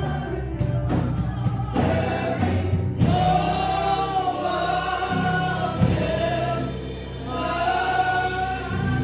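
Gospel worship music: a choir singing long held notes over instrumental accompaniment with a steady low bass.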